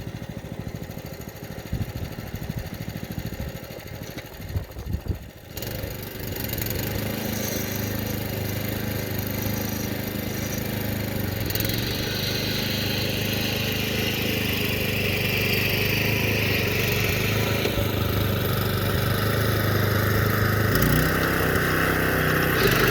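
A Predator 212 single-cylinder four-stroke engine on a small homemade tractor, running. For the first five seconds or so it is quieter, with irregular knocks and rattles, then it runs steadily and grows gradually louder.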